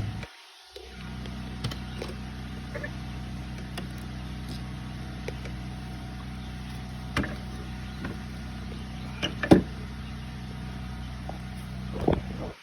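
Steady mechanical hum from a running machine, with a few short knocks and clicks about 7, 9.5 and 12 seconds in. The hum cuts out briefly just under a second in.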